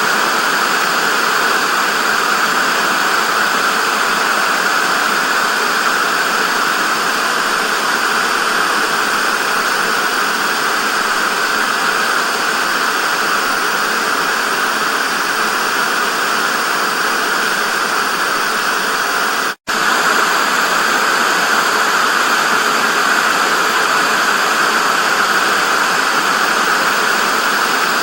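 Television static: a steady, loud hiss with its energy strongest in the upper middle range. About two-thirds of the way through it drops out for a split second, then carries on unchanged.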